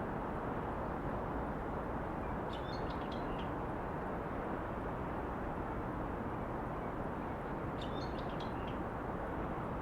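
Steady distant city traffic hum, with a small bird giving a short burst of high chirps twice, about five seconds apart.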